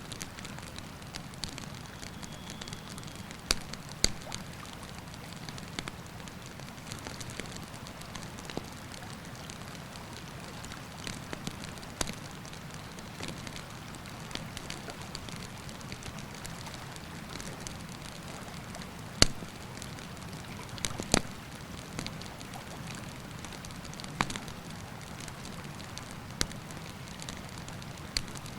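Wood campfire crackling, with a few sharp, loud pops, over the steady rush of a river.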